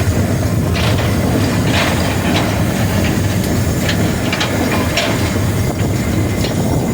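Frisco 1630, a 2-8-0 steam locomotive, running on the line, heard from inside its cab: a steady, heavy rumble with irregular sharp clanks and rail clicks.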